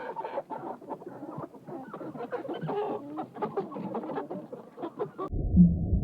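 Chickens clucking, a busy run of short, choppy calls. About five seconds in it cuts off abruptly and a louder, deep, low sound begins.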